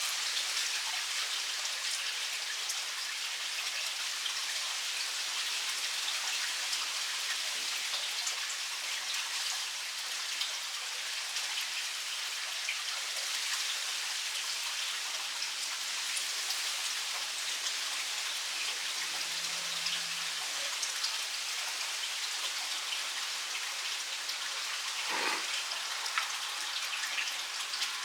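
A steady crackling hiss, with scattered faint clicks through it.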